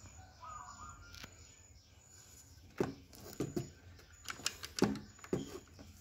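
A bird cawing several times in a loose series from about halfway through, with a short chirping call near the start.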